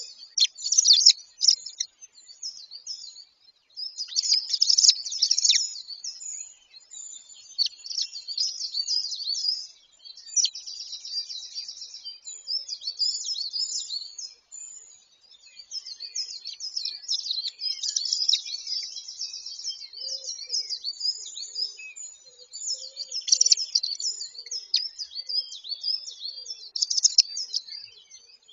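Small birds chirping and singing in a dense chorus of high, quick notes and trills, with a few faint low calls about two-thirds of the way through.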